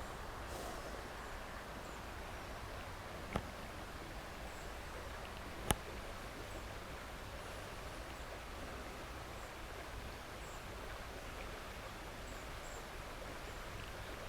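Steady hiss of outdoor ambience by a low, slow river, with a few faint high chirps. Two sharp clicks stand out, one about three and a half seconds in and a louder one near six seconds.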